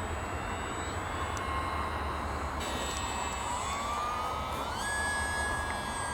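Electric motor and propeller of a small RC airplane whining in flight, rising in pitch a few seconds in and then holding. A steady low rumble runs underneath.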